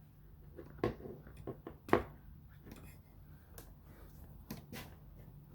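A scatter of short clicks and taps from hands handling tools and parts, with a sharper knock about two seconds in, over a low steady hum.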